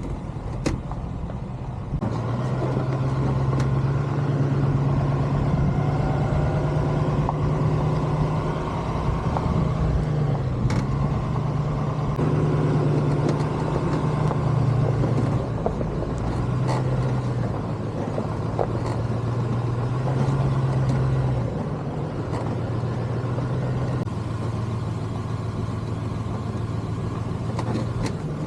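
Pickup truck carrying a camper, driving along a road: a steady engine drone with road noise, the engine note stepping up and down several times. A few sharp knocks and rattles come through.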